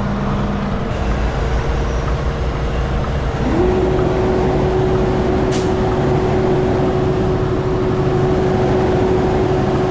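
Semi truck's diesel engine pulling under load as the truck is worked out of soft, soggy ground, with a steady whine over the low rumble. About three and a half seconds in the whine breaks off, slides back up to a slightly lower pitch and holds, and the engine gets louder.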